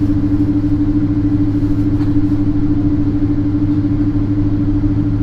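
Boeing 777-200 cabin noise heard from a passenger seat: a loud, steady hum of the jet engines and cabin air with a constant low tone, while the airliner is on the ground before takeoff.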